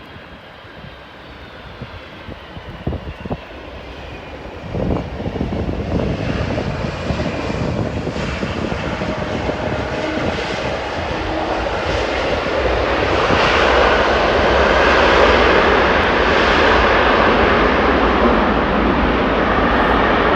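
Jet airliner's engines growing steadily louder as the aircraft approaches, a wide rushing roar that builds over about ten seconds and stays loud near the end.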